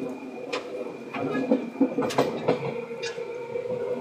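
Seibu 2000 series electric train running, wheels knocking over rail joints several times over a steady hum and rumble.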